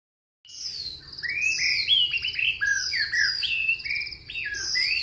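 Songbirds chirping and whistling, several overlapping songs of quick slurred notes and trills. They start about half a second in and carry on steadily.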